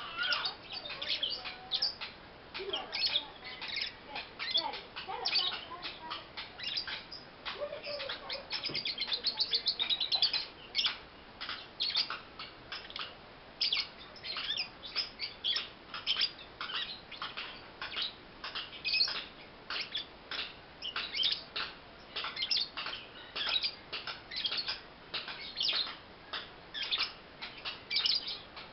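Young pastel blue lovebird chirping: a long series of short, high chirps, with a fast run of chirps about nine seconds in.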